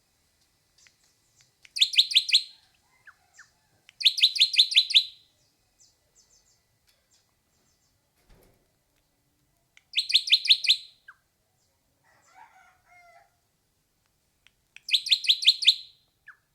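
Hair-crested drongo calling: four short bursts of quick, evenly repeated high notes, with faint softer chirps in between.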